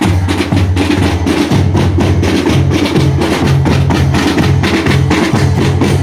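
Marching drum band playing loud: rapid snare drumming over a repeating pattern of bass drums.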